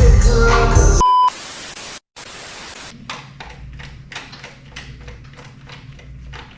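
Music ending about a second in, followed by a short beep and a couple of seconds of hiss and static. Then the low, steady hum of a Nissan VQ35HR V6 idling quietly, with faint regular ticks.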